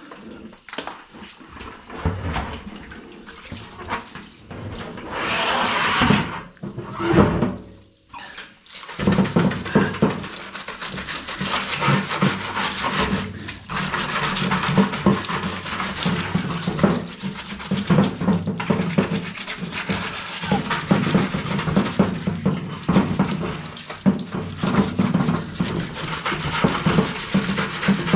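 Water running from a tap over a washing-machine part for the first several seconds, then quick, continuous brush scrubbing of the part.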